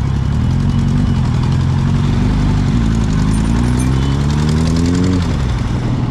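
Motorcycle engine running on the road, its pitch climbing steadily for about two seconds as it accelerates, then dropping suddenly near the end, over a steady low rumble.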